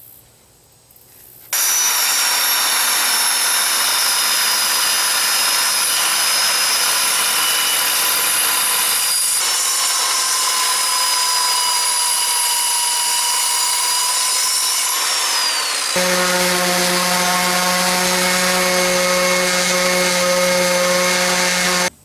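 Electric power saw cutting plywood, starting about a second and a half in and running steadily for about twenty seconds, its motor whine shifting in pitch twice before it stops just at the end.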